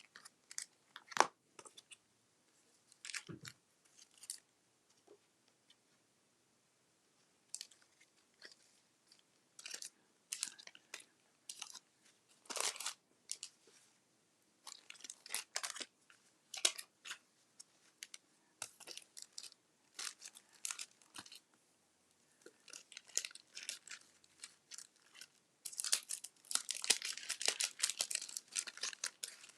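Crinkly material being handled by hand: irregular rustles and crackles, coming thick and loud near the end.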